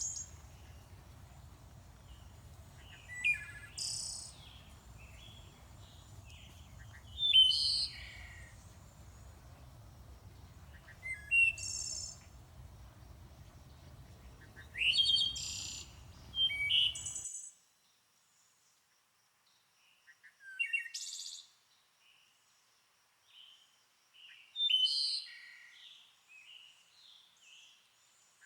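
A songbird singing short, varied, chirping phrases, one every three to four seconds. A low background rumble under it cuts off suddenly a little past halfway, leaving only the song.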